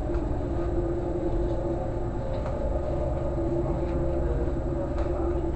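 Steady low drone of a ferry's onboard machinery, a constant rumble with a couple of held hum tones.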